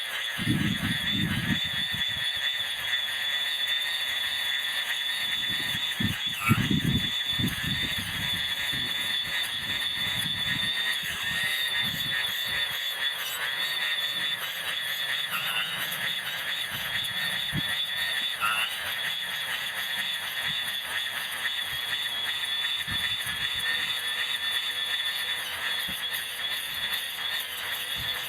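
Electric grass trimmer running and cutting grass, its motor heard sped up as a high, steady whine, with low rumbles coming and going.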